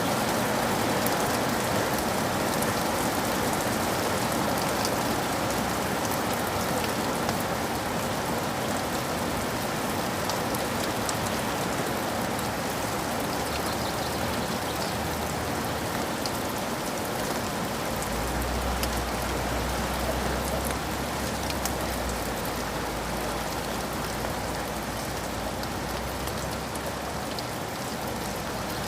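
Steady rain falling, with fine scattered drop ticks. A low rumble of soft thunder comes in about two-thirds of the way through and fades near the end.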